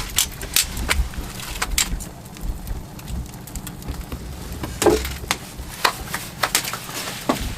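Wood fire of split firewood logs crackling, with irregular sharp pops and snaps over a low rumble.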